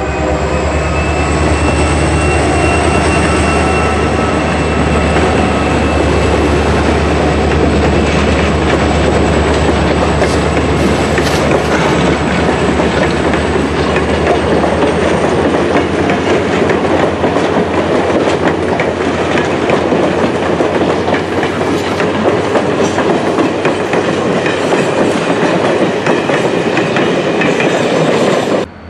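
EMD GP39 diesel locomotive running past close by at the head of a passenger train, its engine strongest in the first few seconds. The coaches follow, with their wheels clickety-clacking over the rail joints and a thin high-pitched squeal in the first half. The sound cuts off suddenly near the end.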